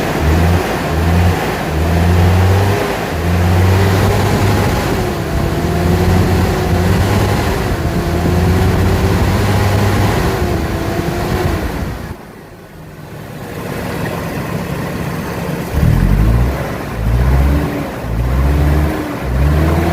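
Toyota Tacoma engine running and being revved, its pitch rising and falling, with heavy low rumbling that cuts in and out. The sound drops briefly about twelve seconds in, then comes back.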